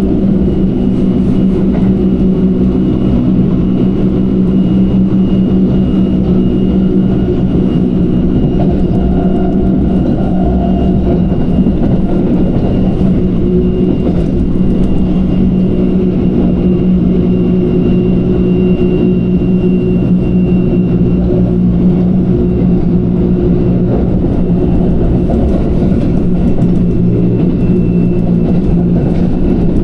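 Electric commuter train running at a steady speed, heard from inside the carriage: a continuous rumble of wheels on the track with a steady hum from the traction motors.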